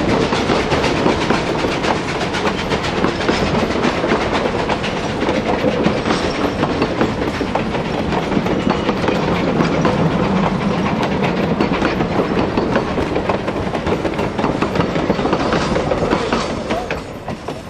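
Railway passenger coaches rolling past close by, the steel wheels clattering over rail joints in a rapid, uneven clickety-clack. The clatter fades near the end as the last coach goes by.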